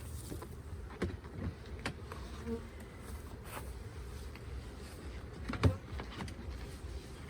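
Honey bees buzzing around the hives in a steady hum, broken by a few sharp knocks, the loudest a little over halfway through.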